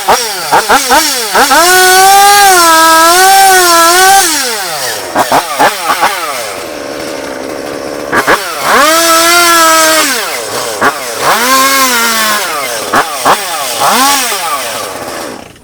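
Chainsaw engine revving: quick throttle blips, then held at high revs for about two seconds, twice, with a few shorter revs near the end.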